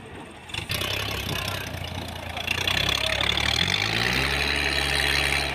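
Sawmill engine running, its pitch rising about three and a half seconds in and then holding steady, under a loud high hiss that starts about half a second in.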